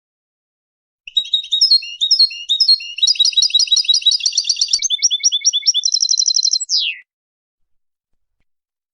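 European goldfinch singing: about a second of twittering, repeated notes, then a fast tinkling run and a quick trill, ending on one falling note about seven seconds in.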